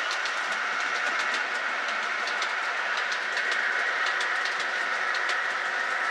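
Model train running on its track: a steady electric-motor whine with light, irregular clicks as the wheels pass over rail joints.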